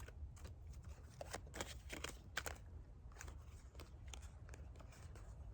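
A deck of tarot cards being shuffled and handled by hand: an irregular run of quick flicks and taps over a low steady rumble.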